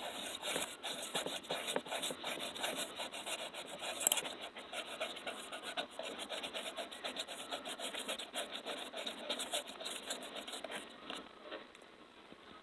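Fast, continuous close-miked ASMR scratching and rubbing, with one sharp click about four seconds in. It stops about eleven seconds in.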